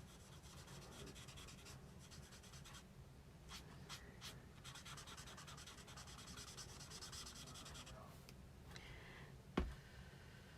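Alcohol marker rubbing quickly back and forth on cardstock, colouring in a stamped image, with one sharp click near the end.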